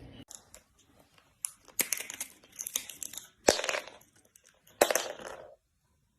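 Irregular crinkling, tearing and crunching noises with scattered sharp clicks, stopping a little before the end.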